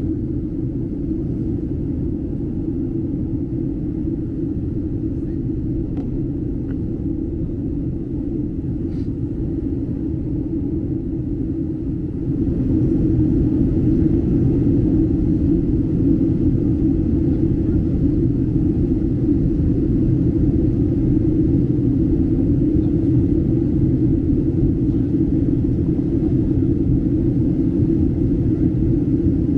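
Steady low drone of a Southwest Airlines Boeing 737's cabin in flight, engine and airflow noise. It gets louder about twelve seconds in and holds there.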